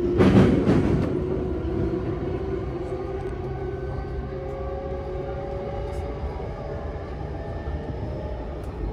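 JR Keihin-Tohoku Line electric commuter train running, heard from inside the carriage: a steady low rumble of wheels on rail with a faint motor whine that rises slowly in pitch. A louder rush of noise comes in the first second.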